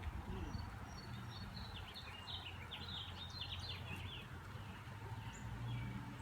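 A bird chirping a quick run of short high notes, over a faint steady low hum.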